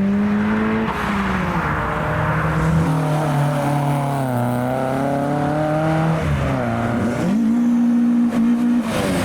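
Car engines accelerating hard away one after another, each note climbing in pitch and dropping at the gear changes, with a fresh engine note coming in about seven seconds in.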